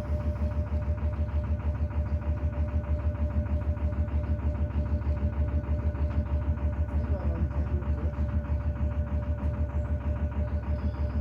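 Narrowboat's diesel engine running steadily while cruising, a regular low throb of about six beats a second with a steady hum over it.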